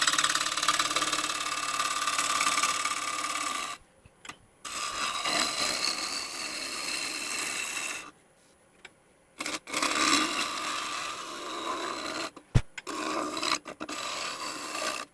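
Bowl gouge cutting a dried, out-of-round magnolia bowl blank spinning on a wood lathe: a steady scraping hiss over a faint steady tone, as the blank is trued back to round a little at a time. The sound breaks off briefly several times.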